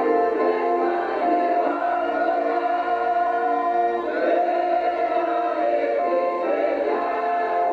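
Music: a choir singing a Christian worship song in long held notes.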